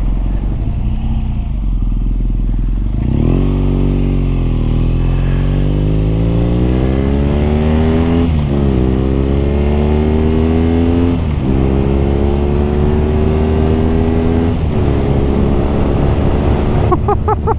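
BMW R nineT's air/oil-cooled boxer-twin engine idling, then pulling away and accelerating through the gears: the exhaust note rises steadily and drops sharply at each of about three upshifts.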